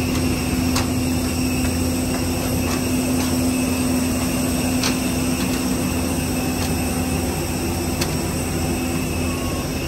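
Airport apron bus running, heard from inside the cabin: a steady engine hum with a constant low drone and a few faint clicks and rattles.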